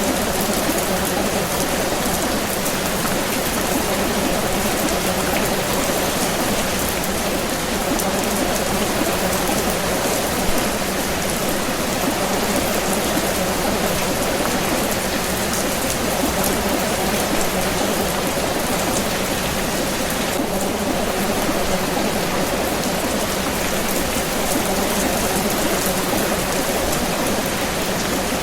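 Steady rain falling: an even, unbroken hiss of rain on a surface, with scattered drop ticks and one slightly louder tap about ten seconds in.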